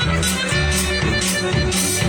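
Live band music, an instrumental passage: a steady bass line under a melody, with a cymbal-like hit about twice a second.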